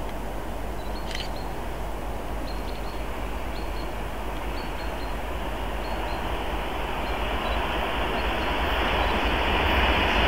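Passenger train approaching along the line, a steady rumble of running noise growing slowly louder.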